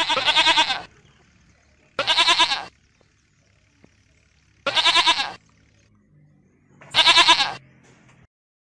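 Goat bleating four times, each call a wavering, quavering bleat under a second long, spaced about two seconds apart.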